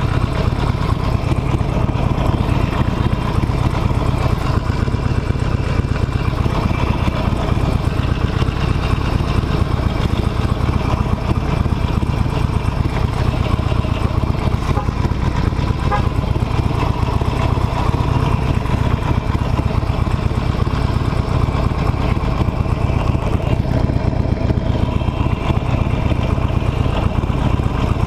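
Harley-Davidson Nightster's V-twin engine running steadily with a constant deep rumble.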